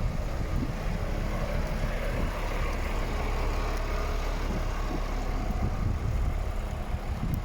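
Scania R450 truck's diesel engine running steadily, a continuous low rumble, with wind buffeting the microphone.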